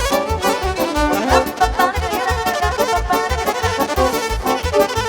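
Instrumental break of live Romanian party music played by a band, with a steady bass beat of about three beats a second and no singing.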